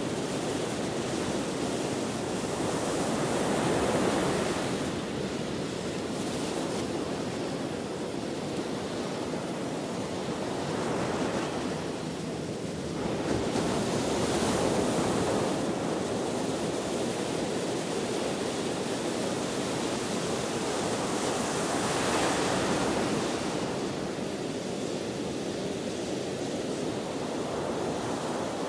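Ocean surf: waves breaking and washing in a continuous rush that swells and eases every several seconds, with wind.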